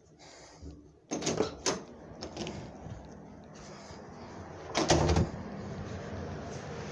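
A door clatters open about a second in, followed by a steady rush of wind. A loud thump comes about five seconds in.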